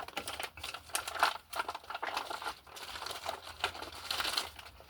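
Rustling and crinkling of things being rummaged through by hand, with many small clicks and light knocks.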